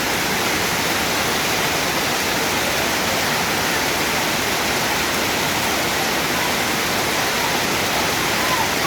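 Heavy rain falling: a steady, dense hiss.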